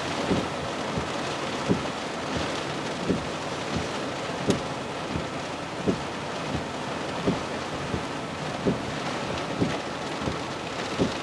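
Tropical-storm rain and wind making a steady hiss, with a low thump repeating evenly about every second and a half.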